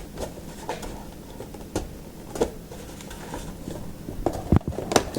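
Hands working a packed saucer out of its cardboard box insert: scattered light taps and scrapes on cardboard, with a sharper knock about four and a half seconds in and a few more near the end.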